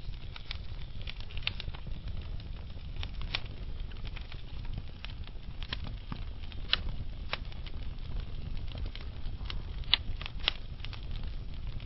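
Slow-burning wood fire with logs crackling: irregular sharp pops and snaps over a steady low rumble of flame. Two pops stand out, about seven and ten seconds in.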